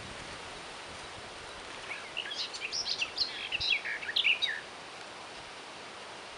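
A songbird sings one quick run of high chirps and trills, about two and a half seconds long, starting about two seconds in, over a steady outdoor hiss.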